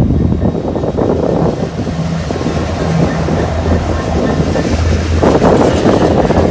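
A Class 66 diesel locomotive passing close with a container train, its two-stroke V12 engine droning low, then from about five seconds in the louder noise of container wagons running by on the rails. Wind buffets the microphone.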